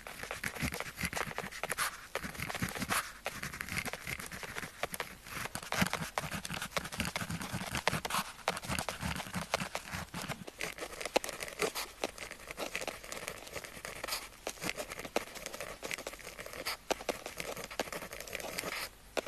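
Pen tip scratching across paper in continuous short writing strokes, with small taps and clicks as the pen lifts and lands.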